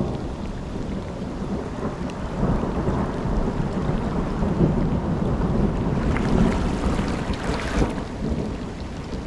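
Low rolling rumble of thunder that swells for several seconds and then eases, over a steady rush of water and wind on the microphone.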